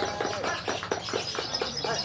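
Lovebird chattering in a fast, unbroken run of short chirps and clicks: the long ngekek song that lovebird contests reward, still going on.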